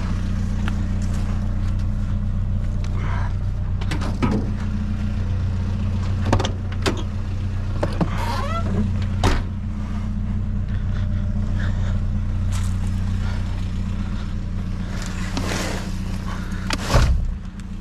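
A truck engine running steadily with a low hum, with a few scattered knocks and clatters over it.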